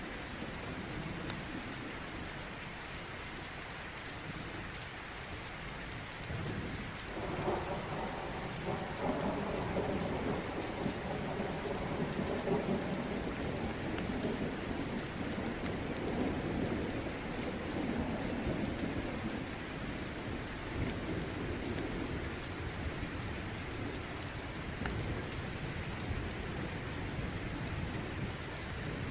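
Steady heavy rain, with a long roll of thunder that swells about seven seconds in and rumbles away over the next dozen seconds.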